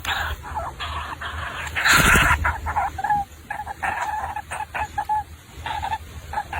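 Bird calls: a run of short, repeated notes, with one loud noisy burst about two seconds in.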